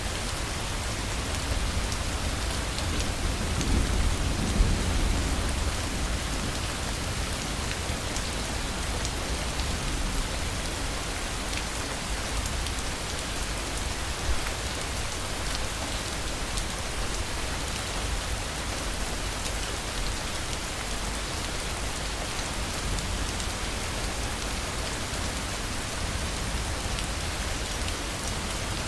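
Heavy rain falling steadily, with a low rumble of distant thunder swelling about four seconds in.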